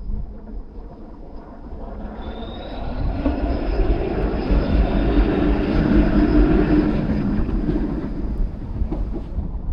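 A vehicle passing on a rain-wet city street, building up over a few seconds, loudest a little past the middle, then fading away near the end.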